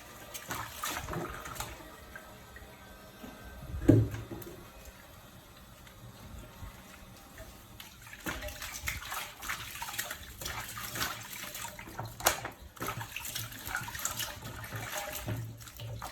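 Water splashing and sloshing in a small tub or basin, with one loud thump about four seconds in; the splashing grows busier in the second half.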